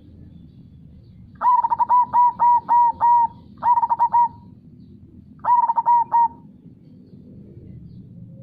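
Zebra dove (perkutut) cooing: three phrases of short, rapidly repeated coo notes, the first phrase the longest, with pauses between them.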